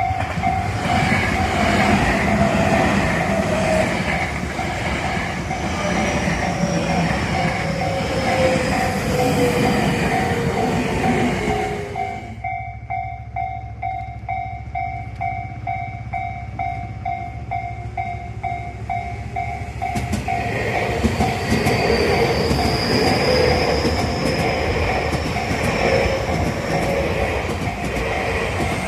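Tobu Tojo Line electric trains passing: one train runs by until about twelve seconds in, and a second arrives about eight seconds later, each with a motor whine that slides in pitch. Throughout, a bell-like ding repeats about twice a second, the pattern of a level crossing alarm.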